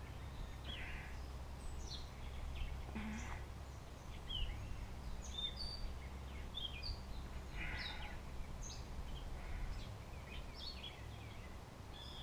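Wild birds chirping and calling in short, scattered notes of several shapes, over a faint, steady low rumble.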